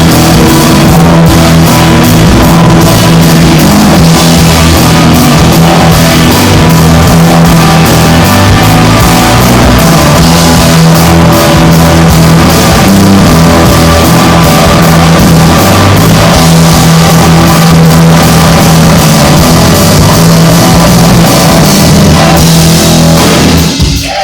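Live rock band playing loud, with electric guitar and drum kit; the song ends abruptly near the end.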